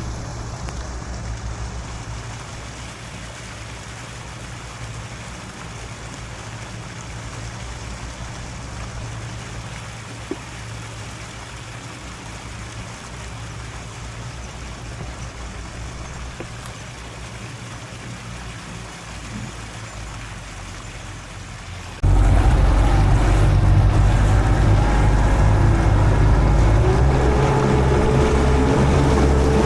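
Small boat's motor running steadily with water noise, then about three-quarters of the way through it turns abruptly much louder, adding a whine that rises slightly near the end.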